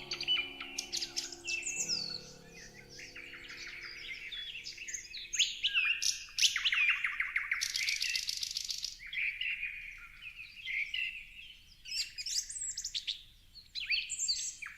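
Several songbirds chirping and singing over one another in quick, high phrases, with a fast trill about halfway through. Soft sustained background music fades out in the first few seconds.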